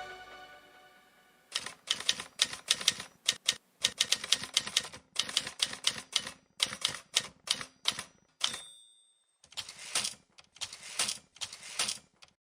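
Typewriter keys clacking in quick runs, with one bell ding about eight and a half seconds in before the typing resumes. The background music fades out in the first second.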